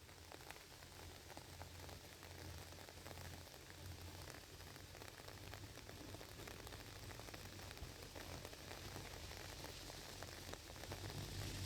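Steady rain falling, a dense hiss made of many separate drop hits, with a low rumble underneath.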